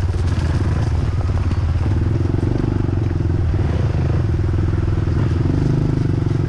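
Dirt bike engine running steadily under way, its exhaust note filling out a little from about two seconds in.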